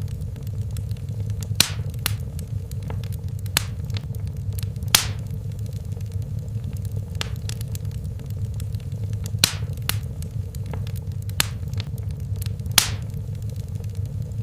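Wood fire crackling in a fireplace: a steady low rumble of flames with scattered sharp pops and snaps at irregular intervals, the loudest about five seconds in and near the end.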